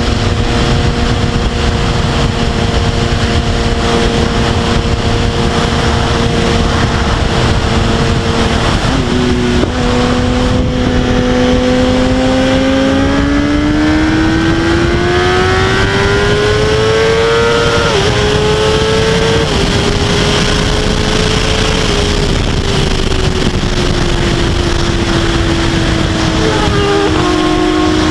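Kawasaki ZX-10R sport bike's inline-four engine heard from the rider's seat under heavy wind rush: a steady cruising note, then from about ten seconds in a hard pull with the pitch climbing for several seconds. Two sharp drops in pitch mark upshifts, after which the engine holds a steady, slowly falling note as the throttle eases.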